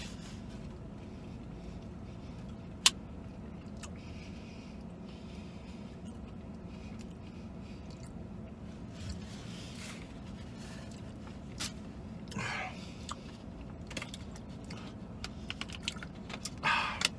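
A man chewing a mouthful of fried chicken sandwich over a steady low hum, with a single sharp click about three seconds in. Near the end there is a brief rustle as he drinks from a plastic water bottle.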